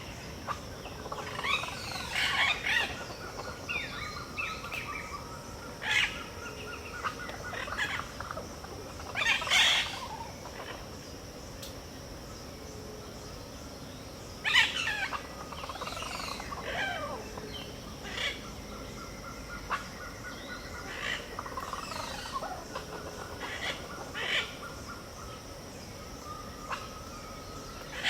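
Pantanal dawn chorus: several kinds of birds call and sing over a steady high insect drone. Two long, rapid trills run for several seconds each, one early and one past the middle, and loud single calls stand out about a third and halfway through.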